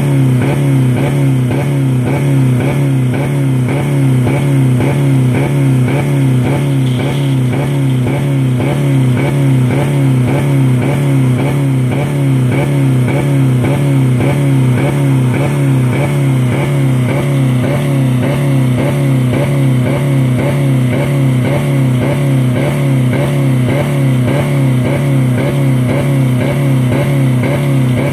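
2000 Dodge Neon four-cylinder engine held at a steady high rpm, around 4000, with a fast regular pulsing in the sound. It is being run with no oil or coolant left in it.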